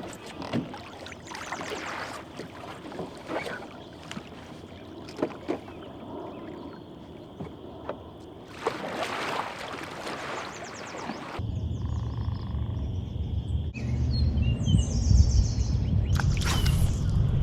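Canoe paddle strokes and water splashing, uneven and irregular. After a cut about eleven seconds in, a louder steady low rumble takes over, with a few short bird chirps near the end.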